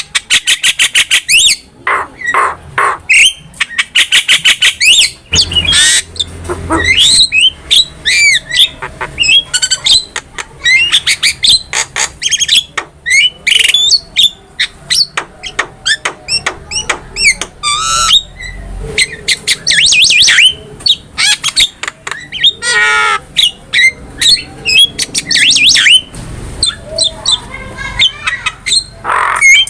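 Javan myna singing a loud, varied song: harsh squawks, rapid rattling chatter and gliding whistles, one after another without pause.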